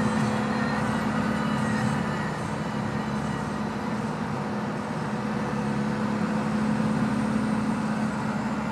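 Cummins 4BT four-cylinder turbo-diesel engine with twin turbochargers, running steadily, its level easing a little mid-way and then coming back up.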